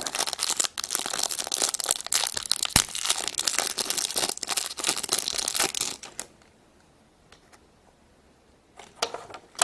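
Plastic packaging crinkling and tearing as a small packet is handled and opened by hand, full of quick crackles; it stops about six seconds in and crackles again briefly near the end.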